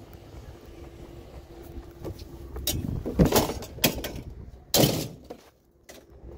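Objects being handled and set down while picking through curbside junk: a few sharp knocks and clattering thumps in the second half, the loudest a little past halfway and again about two-thirds through, with a faint steady hum beneath the first half.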